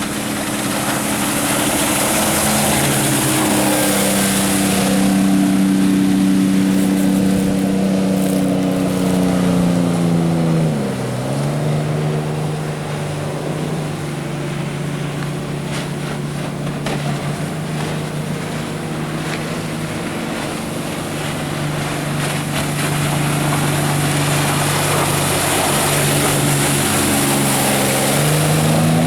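Motorboat engine running hard under way, over a hiss of wind and water. About ten seconds in its pitch drops sharply and then holds lower and steady. Right at the end it starts to climb again.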